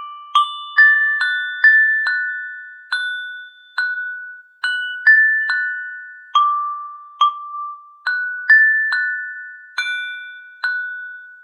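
A slow melody of single bell-like struck notes, as from a glockenspiel, each ringing out and fading before the next, roughly one to two notes a second. There is no rain to be heard.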